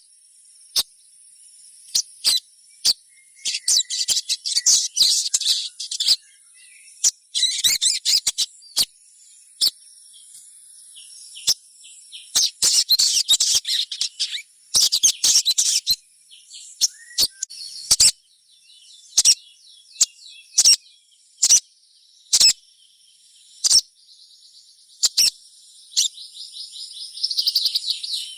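Little spiderhunter (sogon) calling: sharp single high chirps about every second, broken by bursts of rapid twittering several times, the last near the end. A steady high whine runs underneath.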